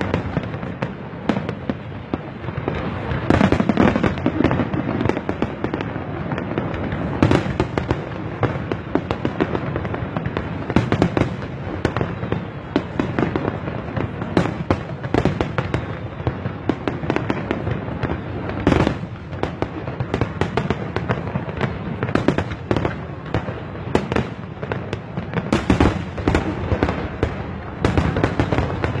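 Fireworks display going off continuously: a dense run of bangs and crackling, with louder burst explosions every few seconds.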